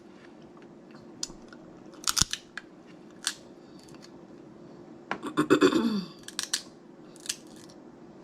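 Snow crab leg shells cracking and snapping, with chewing. The cracks are sharp and scattered, and the densest run comes about five to six seconds in, together with a short falling vocal sound.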